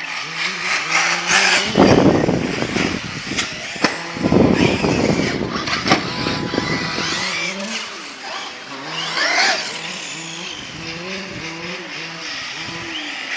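A radio-controlled car's motor running with a buzzing note that rises and falls as it is revved, with rising whines near the end. Two loud rushes of noise come about 2 and 4.5 seconds in.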